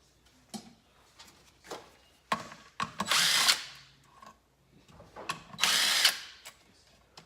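Cordless power drill-driver spinning in two short bursts of under a second each, working the clutch's spring-loaded 10mm bolts, with light clicks of handled parts between the bursts.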